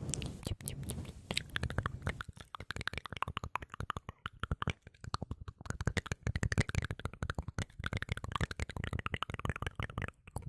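ASMR mouth sounds: rapid wet clicks and smacks close to the microphone, in a dense run that breaks briefly near the end.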